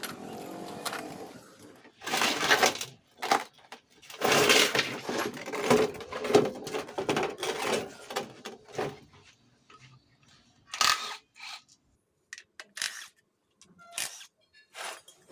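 Irregular clanks, scrapes and clinks of metal tools and engine parts being handled, busiest in the first half and then thinning to a few sharp clicks.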